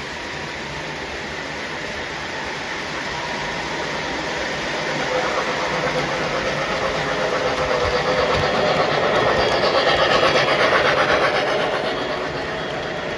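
Model train running along its track, the wheel rumble and rattle growing louder as it passes close at about ten seconds, then easing off.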